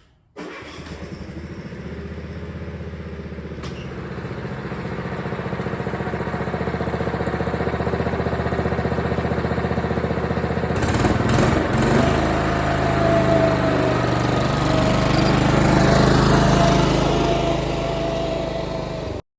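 Cub Cadet 1330 lawn tractor's engine running steadily, getting louder over the first dozen seconds, then stopping abruptly just before the end.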